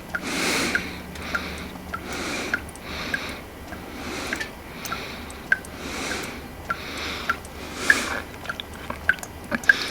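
Water dripping steadily from a leak under a car, with short, small plinks at about two drops a second over soft rustling. The leak loses over a litre an hour, and the owner fears it comes from the engine.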